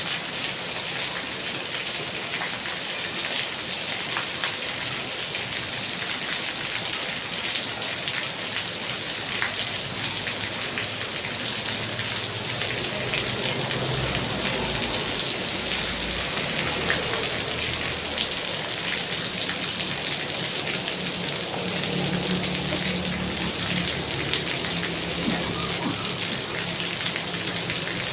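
Heavy rain falling steadily, a dense even hiss with individual drops heard as sharp ticks. A faint low rumble swells in the middle and again later on.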